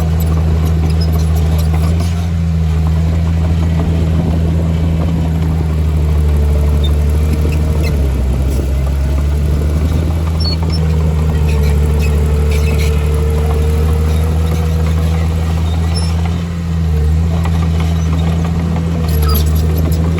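Heavy diesel engine of earthmoving machinery running steadily at working speed, with a faint whine that wavers in pitch over it and a brief dip in the engine note near the end.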